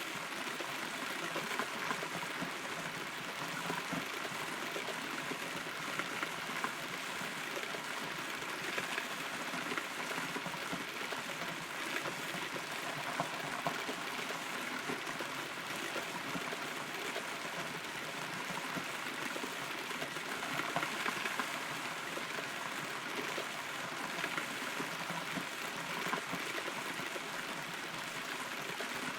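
Steady rain heard from inside a hollow rotten tree: a continuous hiss with scattered, sharper drops landing close by.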